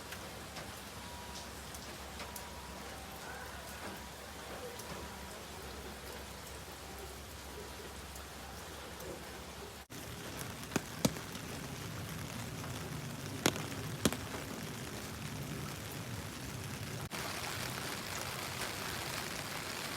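Steady rain falling, an even hiss that changes character abruptly about halfway through and again near the end. There are a few sharp taps in the middle.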